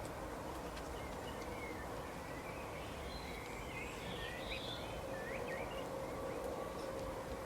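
Small birds chirping faintly, with short quick calls clustered in the middle, over a steady low background noise with a faint hum.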